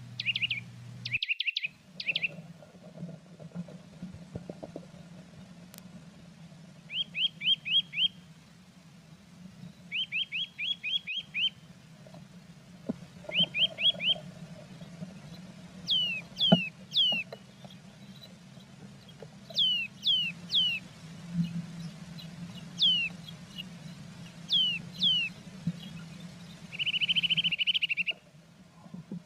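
Small songbirds calling: quick groups of three to six chirps, then from about halfway several sharp notes sliding steeply downward, and a fast trill near the end, over a low steady hum. The sound cuts out briefly twice.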